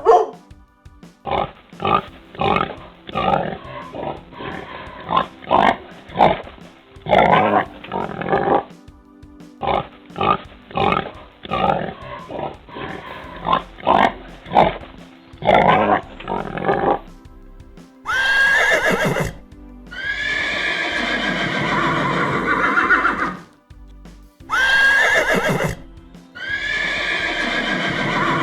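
A run of short, irregular animal calls, then a horse neighing twice about two thirds of the way in. Each neigh opens with a high, falling squeal and runs on as a long, shaking whinny of a few seconds.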